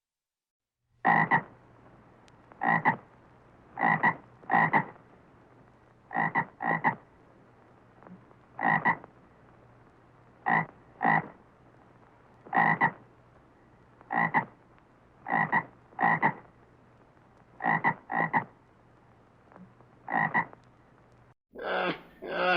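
An animal calling in about sixteen short calls, some in quick pairs, one every second or so, over a faint steady hum. Near the end a different animal's calls begin.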